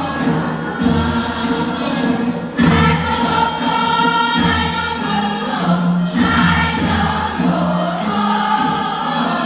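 Music: a group of voices singing together over instrumental accompaniment with a repeating bass line.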